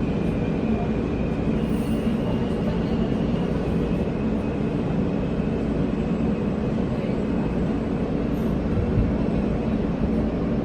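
Steady rumble of a New York City subway R train heard from inside the car as it runs, with a faint high whine.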